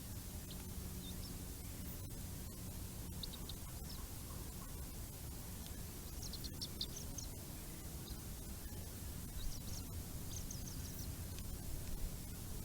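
Birds chirping in short high-pitched clusters, about three bursts of several quick notes, over a steady hiss and low hum of the nest camera's microphone.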